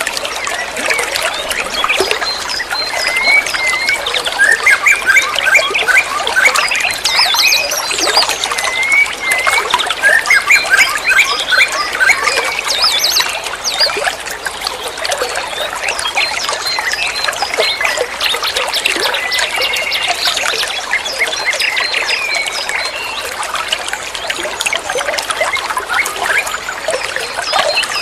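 Water trickling and flowing steadily, with many small birds chirping and trilling over it, the calls busiest in the first half.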